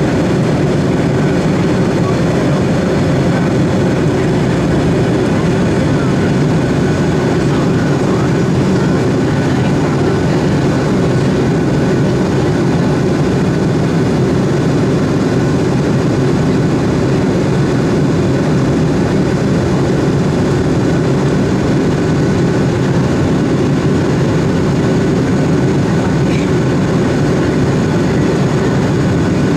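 Steady jet engine and airflow noise of a Boeing 757, a deep even rush that holds unchanged throughout.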